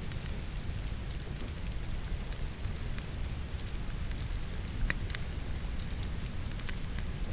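Steady rain mixed with logs crackling in a fireplace: a constant low rumble and hiss under scattered sharp pops, a few of them louder about five seconds in and again near the end.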